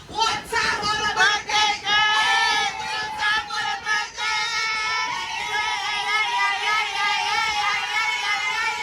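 A high voice singing loudly with a wavering pitch over music, holding one long note through the second half.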